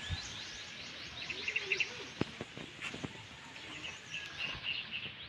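Small birds chirping and trilling repeatedly in quick short notes, with a couple of sharp clicks about two and three seconds in.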